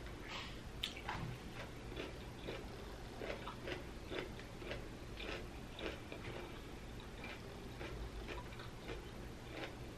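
Close-miked chewing of a crunchy pickled vegetable, a steady run of crisp crunches at about two a second.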